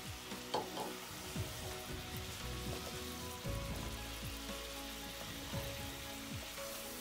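Chicken pieces sizzling in hot ghee in a wok, with ginger-garlic paste just added. They are stirred with a wooden spatula that gives scattered knocks against the pan, the sharpest about half a second in.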